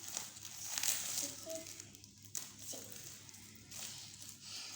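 Irregular rustling and crinkling of packaging being handled, in short noisy bursts.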